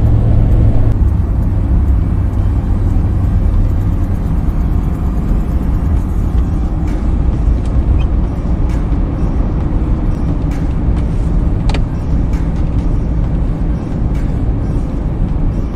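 Truck driving along a road: a steady low rumble of engine and road noise, with a few faint clicks in the middle.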